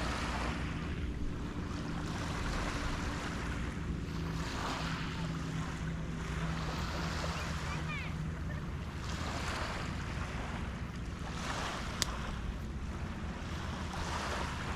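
Small harbour waves breaking and washing onto a sandy, shell-strewn shore, a new swell of rushing water every two to three seconds, over a low rumble of wind on the microphone. A single sharp click about twelve seconds in.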